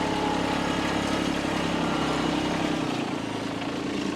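An engine running steadily at idle; its deepest rumble drops away about three seconds in while the motor keeps running.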